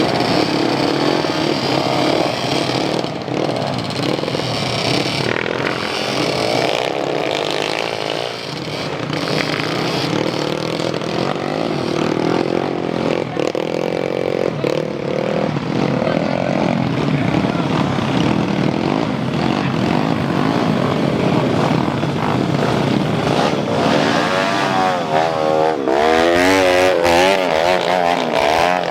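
Motocross dirt bike engines revving, their pitch rising and falling with the throttle. The loudest moment is near the end, when a bike revs up and down several times.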